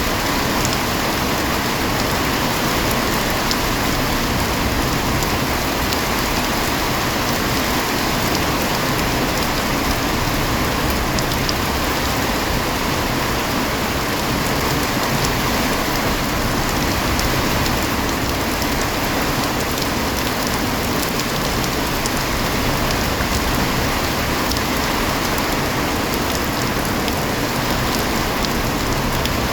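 Heavy, steady rain falling and drumming on surfaces, with scattered individual drops ticking through the hiss.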